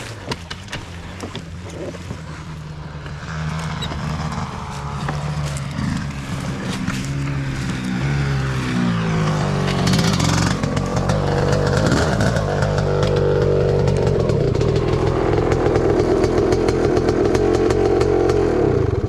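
Dirt bike engine revving hard, its pitch repeatedly climbing and dropping as the throttle opens and the gears change, growing louder as the bike comes closer.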